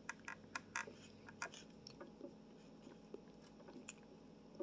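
Faint chewing and wet mouth clicks of a person eating an Indian sweet, a handful of soft clicks in the first second and a half, sparser after.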